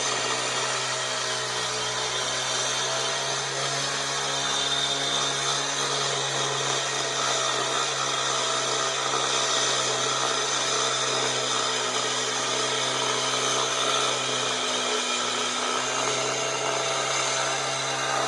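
Power saw cutting concrete, running steadily without a break: a motor hum under a bright, gritty hiss.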